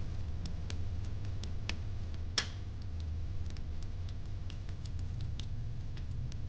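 Wood fire crackling: scattered small sharp pops and ticks over a low steady rumble, with one louder pop about two and a half seconds in.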